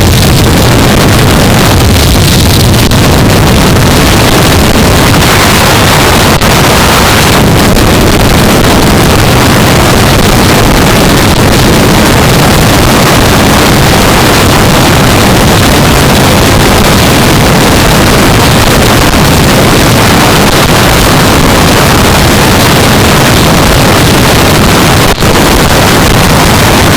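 Loud, steady wind rush on a helmet camera's microphone at riding speed, with the 2015 Yamaha R3's 321 cc parallel-twin engine running underneath.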